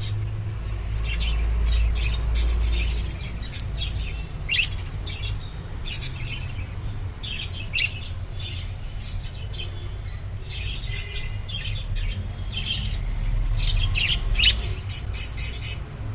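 Pet budgerigars chirping and chattering in short, quick calls, over and over, with a low rumble underneath.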